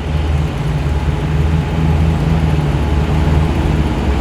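Muscle car engine rumbling steadily at low revs as the car rolls past at walking pace, a deep low burble.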